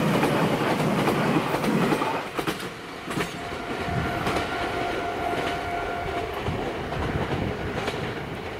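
Meitetsu Series 6500 electric train passing close by, its wheels rumbling loudly over the rails. About two seconds in it gives way to a quieter train sound with scattered wheel clicks and a steady thin whine from a train further along the curve.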